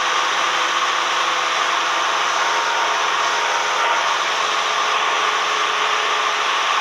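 Cabin noise of a Cessna 172M: the four-cylinder Lycoming engine and propeller drone steadily, with rushing air noise over it.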